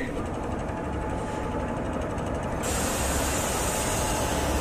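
Indian Railways electric locomotive hauling a train into the station, a steady low rumble that grows slightly louder as it approaches, with a higher hiss joining about halfway through.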